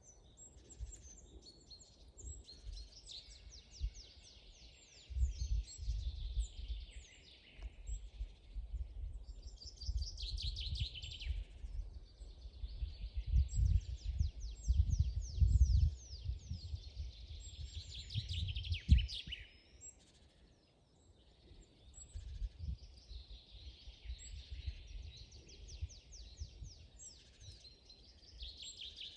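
Songbirds singing in a forest, a steady chorus of rapid trills made of quick falling notes. A loud low rumble underlies the song from about five seconds in until a little before the end.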